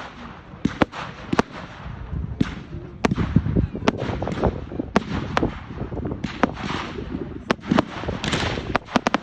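Fireworks going off: over a dozen sharp bangs and cracks at irregular intervals, with crackling hiss between them and a dense cluster of bangs near the end.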